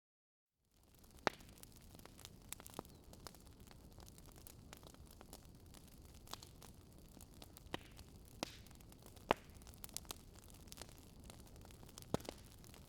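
Wood fire crackling in a fireplace: scattered sharp pops and snaps over a soft steady hiss, the loudest pops about a second in, near nine seconds and near the end. It begins with a moment of dead silence before the crackling cuts in.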